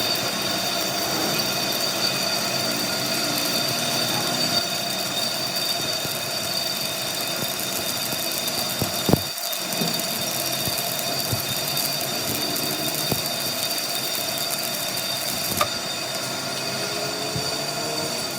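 A machine running steadily with a continuous high whine, with a sharp knock about nine seconds in and another about fifteen seconds in.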